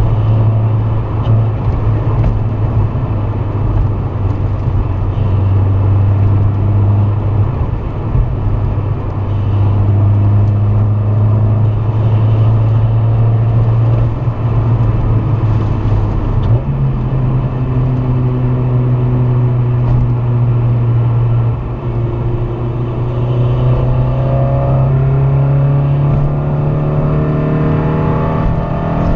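Honda Civic Si's swapped-in K24A2 2.4-litre four-cylinder engine pulling as the car is driven, over steady road noise. The engine note holds, steps up partway through, dips briefly as if for a gear change, then climbs steadily near the end.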